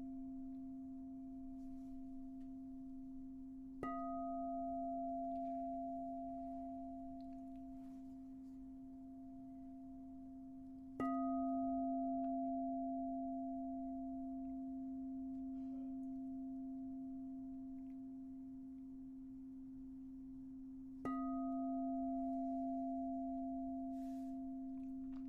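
Singing bowl struck three times, each strike leaving a steady low tone with a higher overtone that rings on and slowly fades.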